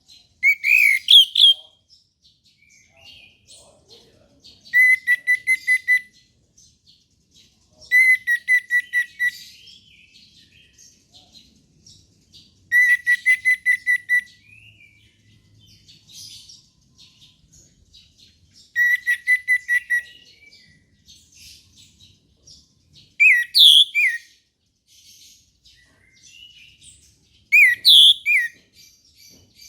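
Orange-headed thrush singing. Seven loud whistled phrases come every four to five seconds: some are a rapid string of repeated notes about a second long, others are rising slurred whistles, with soft twittering between them.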